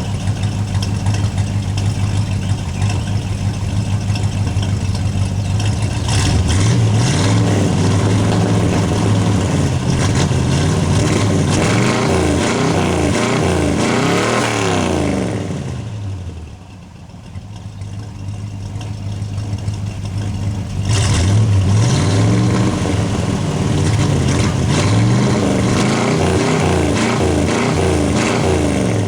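1966 Pontiac Catalina's 389 V8 running at idle, then revved up twice, its speed climbing from about six seconds in, falling back near the middle, and climbing again about twenty-one seconds in before easing off near the end. It cuts up and misfires a little, which the owner puts down to burnt ignition points.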